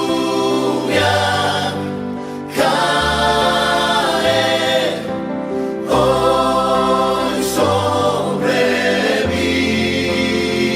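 Christian worship music: a choir sings long, held chords over accompaniment, the chord changing every couple of seconds.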